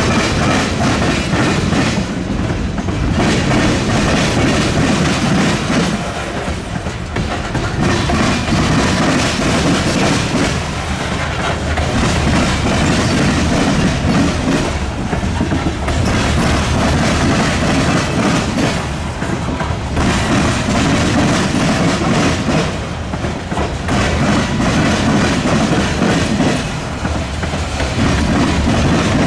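Freight train cars rolling slowly over a railroad diamond crossing, their wheels clattering over the crossing rails. The sound swells and dips steadily, about once every four seconds, as each car goes by.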